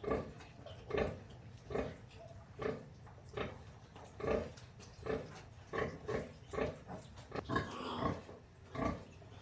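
Pigs grunting, a steady run of short grunts a little more than one a second.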